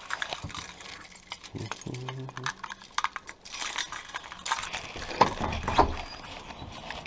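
Keys jangling amid a run of handling clicks and knocks, with a brief low hum about two seconds in.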